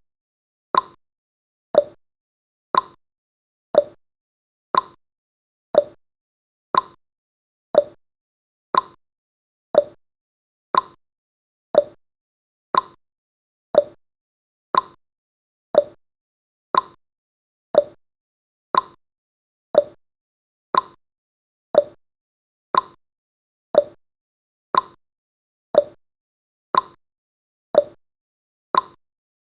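Clock tick-tock sound effect marking the seconds of a countdown timer: one short tick each second, alternating higher and lower in pitch.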